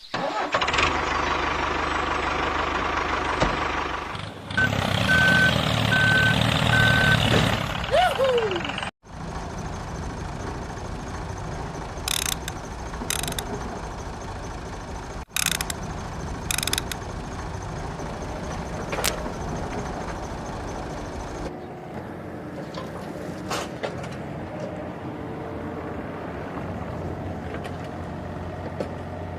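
Miniature diesel engine of a home-built model tractor running steadily, in several short clips that cut off abruptly. A row of short high beeps sounds about five seconds in.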